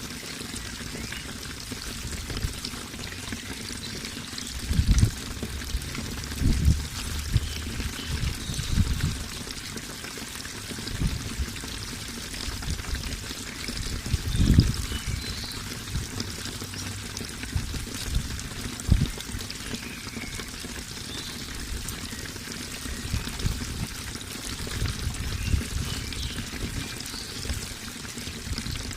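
Running water pouring and splashing steadily, with irregular deeper gurgles and surges.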